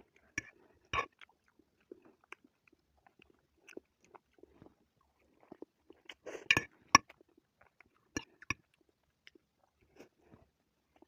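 A person chewing and eating Indomie instant noodles close to the microphone: scattered wet mouth clicks and smacks. There is a louder burst of eating noise just past halfway, ending in a sharp click.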